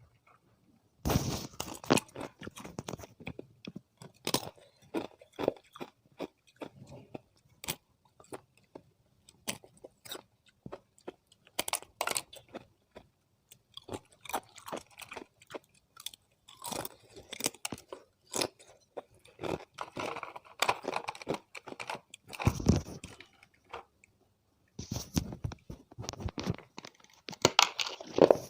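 Thin disks of ice being bitten and chewed close to the microphone: sharp, irregular crunching and crackling in clusters, with brief pauses between bites.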